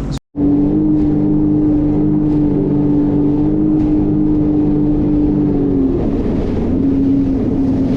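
Jet ski engine running at steady cruising speed, one held drone. The drone dips slightly in pitch about six seconds in and then settles a little lower.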